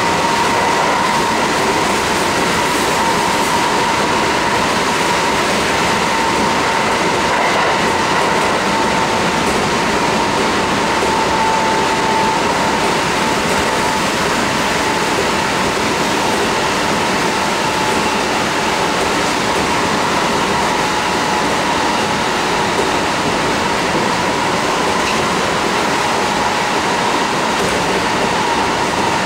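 Interior running noise of a Kintetsu 1230 series electric train (Hitachi GTO-VVVF) travelling at steady speed: a loud, even rumble of wheels on rail under a thin high whine that sinks slightly in pitch.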